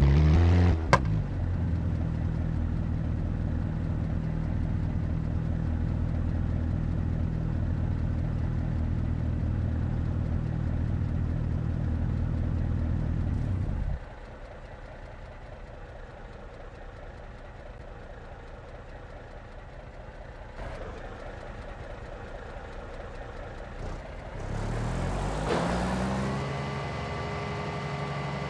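A vehicle engine running steadily, cutting off suddenly about halfway through. Near the end a rising whine climbs and settles into a steady machine hum.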